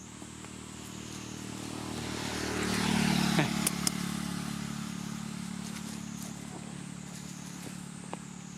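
A motor vehicle engine going by close: it grows louder for about three seconds, peaks with a brief falling whine, then fades slowly while still running. A couple of sharp clicks come just after the peak.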